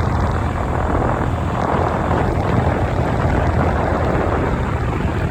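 Outdoor air-conditioning condenser unit running: a steady rush of the condenser fan over a low, constant compressor hum.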